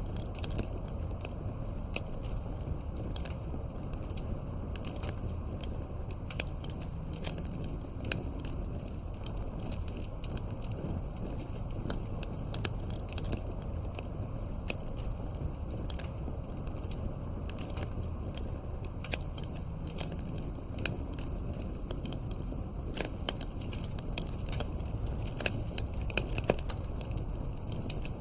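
Campfire burning: wood crackling with frequent irregular sharp pops and snaps over a steady low rumble.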